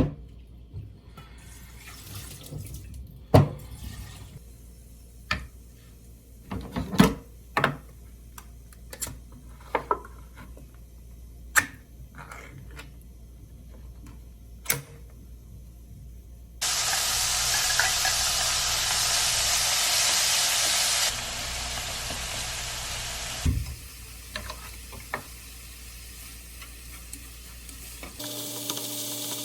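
Kitchen tap running hard into a sink for about four seconds, then more softly for a couple more, after a string of scattered light knocks and clatters.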